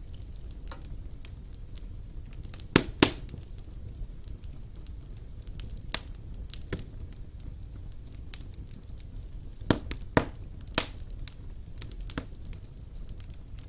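Wood fire burning in a fireplace: a low steady rumble of the flames with irregular sharp crackles and pops, the loudest a close pair about three seconds in and another pair about ten seconds in.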